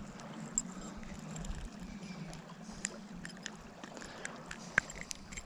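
Steady rush of flowing river water, with scattered small clicks and taps over it and one sharper click near the end.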